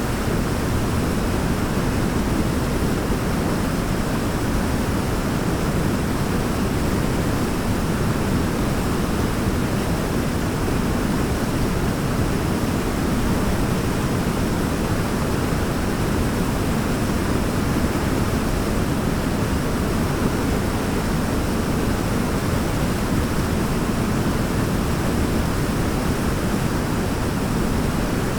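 Waterfall rushing steadily, an even, unbroken roar of falling water that is heaviest in the low end.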